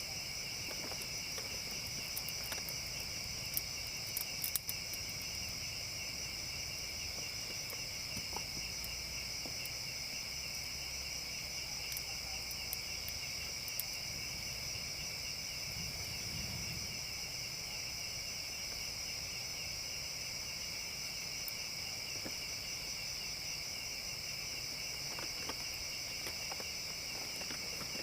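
Steady chorus of forest insects trilling in two shrill, unbroken pitches. There are a few sharp clicks about four seconds in.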